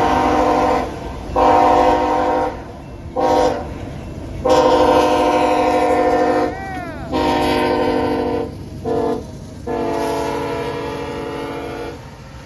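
CSX freight locomotive's air horn, a multi-note chord, sounding a series of long blasts with short ones between, the pattern of a grade-crossing warning. The final long blast lasts about two and a half seconds.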